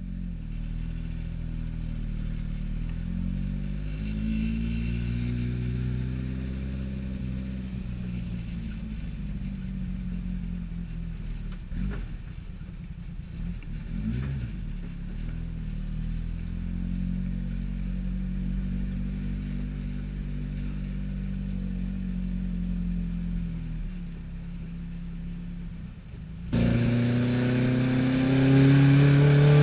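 Tuned Alfa Romeo twin-cam four-cylinder engine of a GT Junior, heard from inside the cabin, idling with revs gently rising and falling. Near the end it cuts suddenly to the engine pulling hard at high revs, its pitch climbing steeply and much louder.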